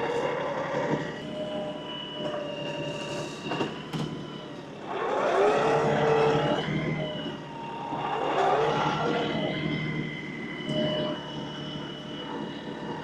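LS XR315 compact tractor's diesel engine running with a steady whine over it while the front grapple works, surging louder for a couple of seconds about five seconds in and again about eight seconds in.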